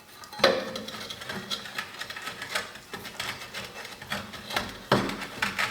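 Steel landing-gear parts, pins and foot, clinking and knocking together as they are handled and lined up. Scattered light clicks, with a louder knock about half a second in and another near the end.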